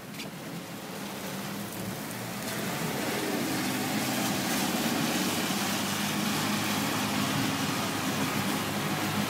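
A car driving in the rain: a low engine hum under a steady hiss of rain and wet road, growing louder over the first few seconds and then holding steady.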